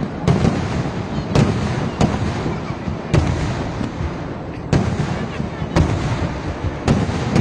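Fireworks display: a string of loud bangs from rockets and aerial shells, roughly one a second, over a continuous crackling rumble.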